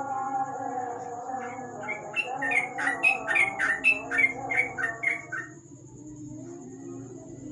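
Yellow-vented bulbul (trucuk) calling: a run of about a dozen short chirps, a few a second, stopping about two seconds before the end, over background music.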